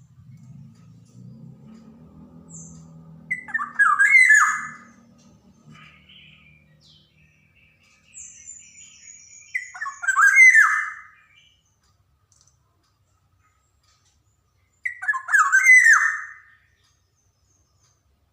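Black-naped oriole (kepodang) singing: three loud phrases of quick falling whistled notes, each about a second and a half long and about six seconds apart, with quiet gaps between them.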